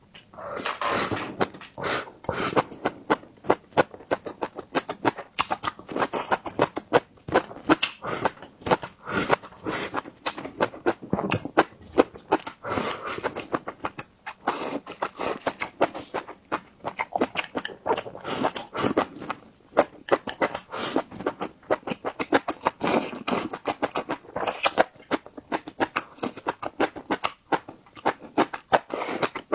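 Close-miked eating sounds: wet chewing and lip smacking, a fast run of clicks and smacks with only brief pauses.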